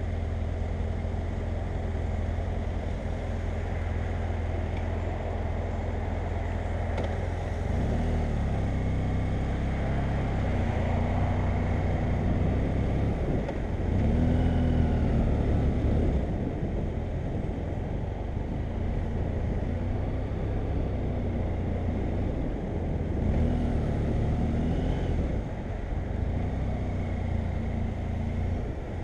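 BMW F800GS motorcycle's parallel-twin engine running while riding, with steady wind rush; the engine note rises and falls several times as the rider speeds up and eases off, loudest about halfway through.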